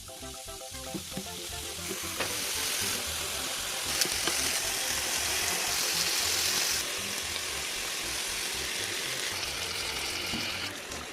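Food frying in hot oil: a steady sizzle that grows louder over the first couple of seconds and then holds, with a sharp pop about four seconds in.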